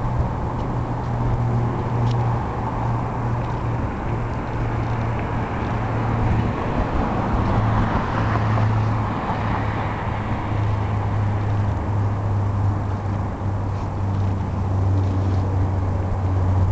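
A steady low engine hum, settling slightly lower in pitch about ten seconds in, under a hissing wash of noise that swells around the middle.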